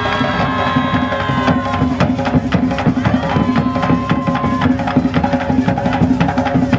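Traditional Colombian Caribbean carnival music: fast, dense hand-drum and wood-percussion rhythm, with long held melody notes over it, first at the start and again around the middle.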